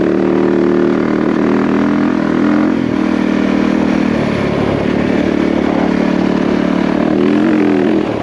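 Yamaha WR450F single-cylinder four-stroke dirt-bike engine running while riding. The engine note dips briefly about three seconds in, then rises again near the end.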